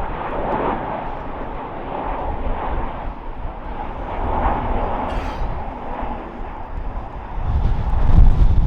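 Boeing 737 MAX jet engines, CFM LEAP-1B turbofans, running as the airliner comes in to land: a steady jet roar, with a deep rumble swelling loudly near the end.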